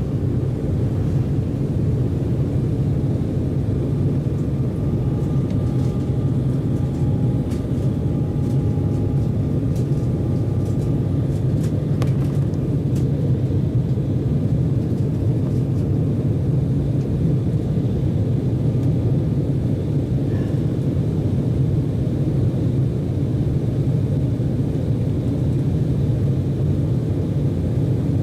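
Steady low rumble inside the cabin of an Embraer 190 airliner, from its jet engines, with a couple of faint tones and a few light clicks partway through.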